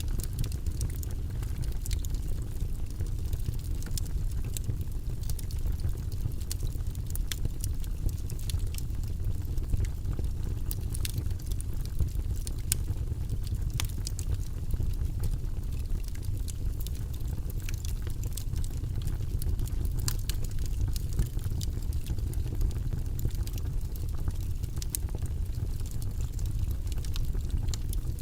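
Wood logs burning in a fireplace: a steady low rumble of the fire with frequent irregular sharp crackles and pops.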